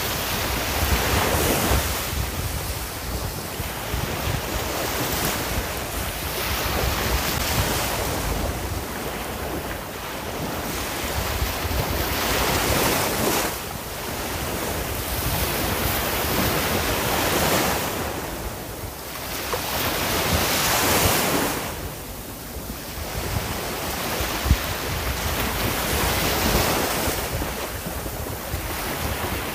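Sea waves breaking and washing on a shore, rising and falling every few seconds, with wind rumbling on the microphone.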